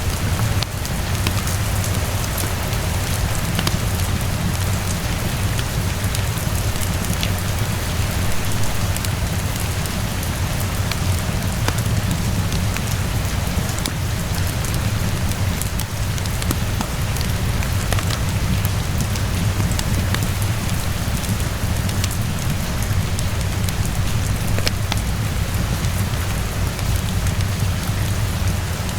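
Steady rain with a low rumble underneath, mixed with scattered sharp crackles of a wood fire in a fireplace.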